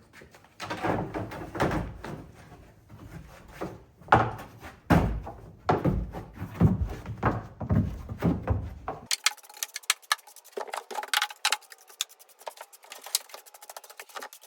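Broom sweeping out a pickup truck bed: a run of scratchy brushing strokes about one a second. About nine seconds in the sound turns thinner, to rapid light ticking and rattling.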